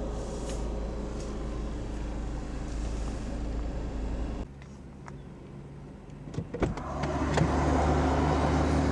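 Diesel car heard from inside the cabin, running with a steady low rumble that drops off sharply about four and a half seconds in. After a few clicks, the engine's steady hum comes up louder as the car gets going.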